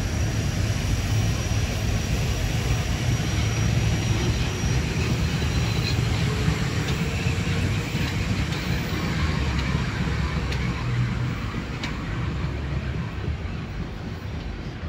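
Metro-North Harlem Line electric multiple-unit commuter train running past on the track: a steady rumble of wheels on rail and running gear that fades over the last few seconds as the last car draws away.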